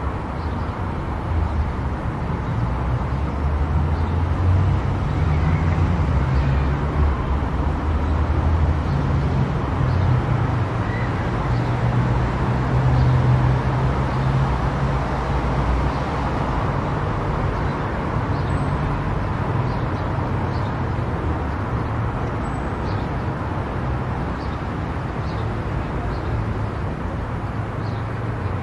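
Car driving on an expressway: steady tyre and road noise with a low rumble that grows louder for a while partway through.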